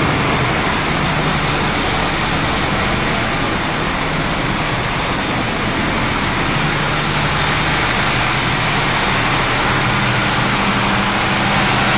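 A ship's engine running steadily at a loud, even level, with a steady high whine over the engine noise.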